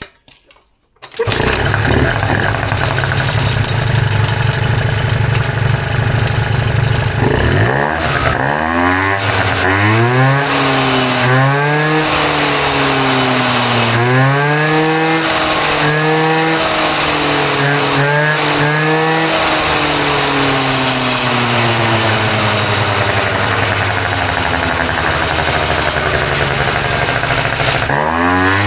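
A freshly rebuilt 50cc two-stroke Minarelli-type (VGA Digta) scooter engine on a test bench starts about a second in and idles steadily. From about eight seconds it is revved up and let back down again and again, about every two seconds, then holds a steady note before one more rev near the end.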